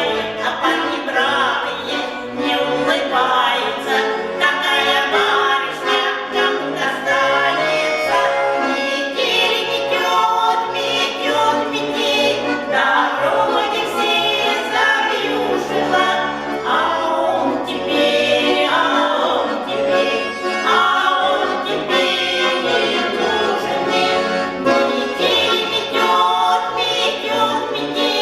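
A vocal group singing in harmony with instrumental accompaniment.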